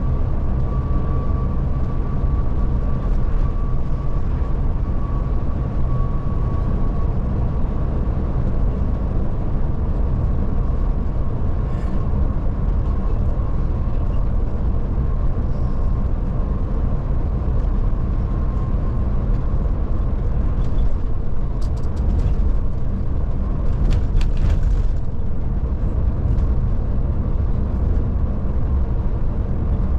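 Scania Touring coach driving at a steady pace, heard from inside: a constant drone of engine and road noise with a thin steady whine over it. A few light clicks come about two-thirds of the way through.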